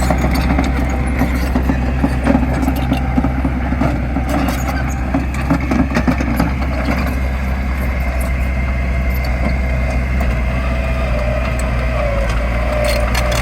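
Diesel engine of a heavy earthmoving machine running steadily under load, with scattered clanks and knocks.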